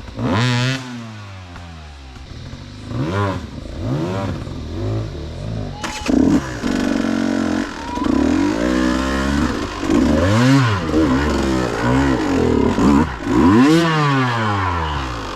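Dirt bike engine revving up and dropping back again and again in short bursts of throttle, with a sharp knock about six seconds in.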